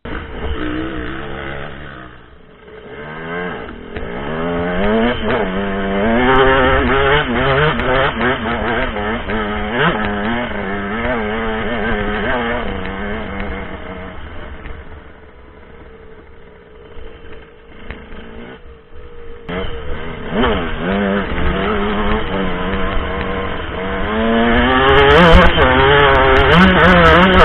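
KTM SX125 two-stroke dirt bike engine under hard riding, its pitch rising and falling over and over as the throttle is opened and closed. The throttle eases off briefly about two seconds in and for a few seconds past the middle, and a few sharp ticks come near the end.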